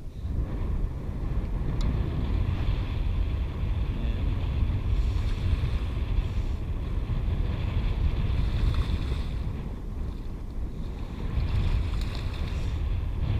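Strong wind buffeting the microphone in gusts, a steady low rumble, with water washing around the boat beneath it.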